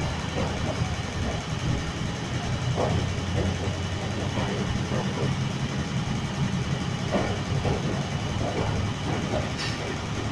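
Passenger train coaches rolling slowly past a station platform, a steady low rumble.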